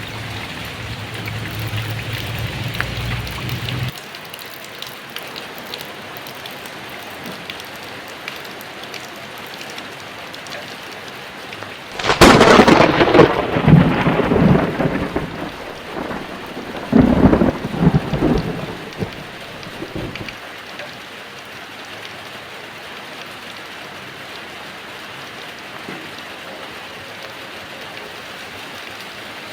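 Steady heavy rain, a little quieter from about four seconds in. About twelve seconds in a sudden loud thunderclap rumbles for several seconds, then a second peal follows before the thunder dies away, leaving only the rain.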